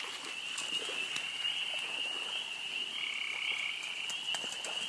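Chorus of frogs calling from flooded water: a steady high-pitched trill that never stops, with a second, slightly lower call joining in for under a second about three seconds in.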